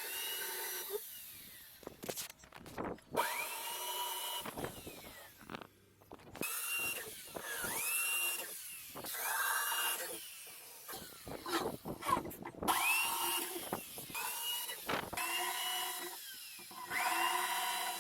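A small electric motor whirring up to speed in short runs several times over, each a quickly rising whine that levels off and holds for a second or so.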